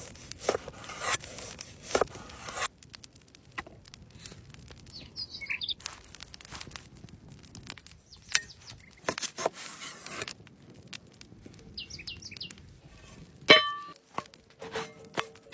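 Irregular knocks, clicks and rustles of things being handled, with a bird chirping briefly twice.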